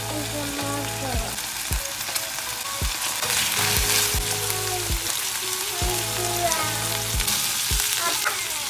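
Pork pieces sizzling steadily in hot perilla oil in a pot, stirred with a wooden spatula.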